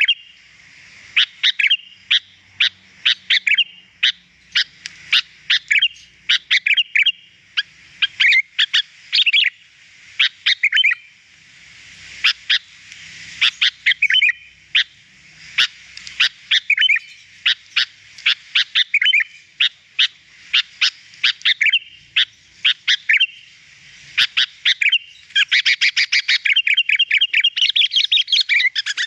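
Sooty-headed bulbul (kutilang) singing: repeated phrases of short, bright chirping whistles with brief pauses between them, turning into a fast, dense run of chirps near the end.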